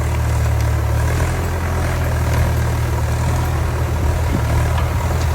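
Tractor engine running steadily with a strong low hum that shifts slightly about a second in.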